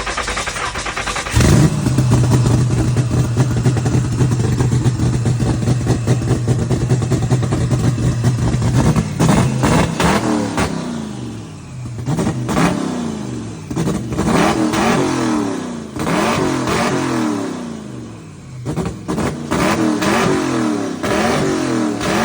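Twin-turbocharged Ford 5.4-litre DOHC V8 running. About a second and a half in it jumps louder into a steady fast idle, held for several seconds, then the throttle is blipped repeatedly, the revs rising and falling about eight times.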